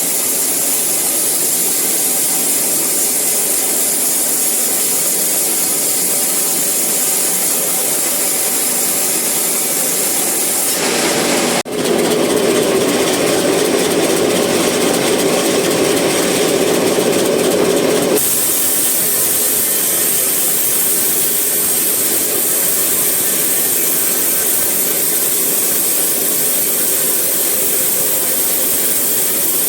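Sawmill saw running and cutting eucalyptus wood, a loud steady mechanical noise with a strong hiss. After a brief break about twelve seconds in, a lower-pitched tone joins for about six seconds, then drops away.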